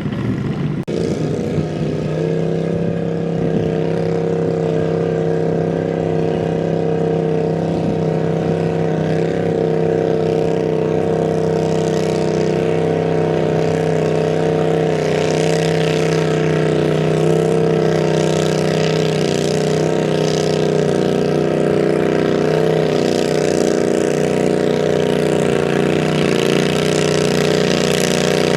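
Modified pulling garden tractor's engine running at high, nearly steady revs, settling into a constant pitch about a second in and holding it.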